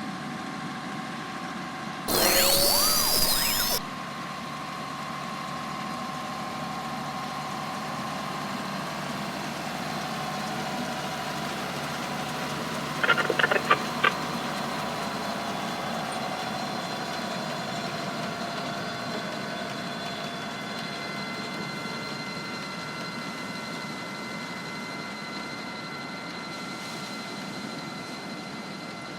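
Beach-grooming tractor's engine running steadily while it levels the sand, with a loud noisy burst of sweeping sound about two seconds in and a quick run of clicks near the middle.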